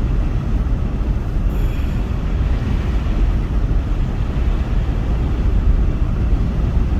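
Steady rumble of wind and road noise inside a moving car with the windows open, over the heater blower running high to keep the windshield from freezing.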